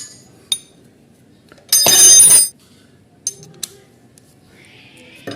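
Metal wrench clinking against a motorcycle engine's oil drain bolt as it is worked loose, with one loud, ringing metallic clatter lasting under a second about two seconds in and a few light clicks around it.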